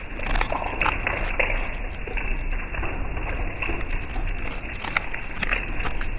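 Storm noise: a steady rush with many scattered sharp taps and crackles.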